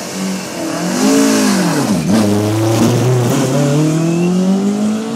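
Rally car engine revving hard. Its pitch drops to a low point about two seconds in, then climbs steadily as the car accelerates away.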